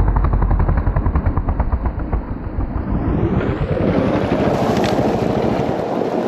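Dirt bike engine running with a rapid, rattling firing beat. From about three seconds in, a rushing noise builds over it.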